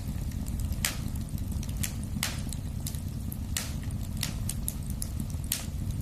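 Wood fire in a fireplace crackling: irregular sharp pops, about five loud ones over the few seconds, with many faint small ticks between, over a steady low rumble of the burning fire.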